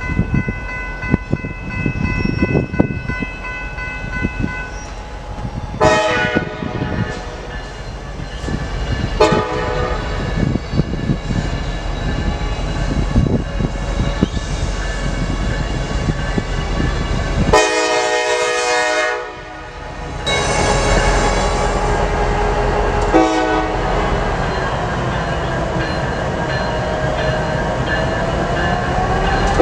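Diesel freight locomotive horn sounding several blasts over the rumble and rail noise of a passing train.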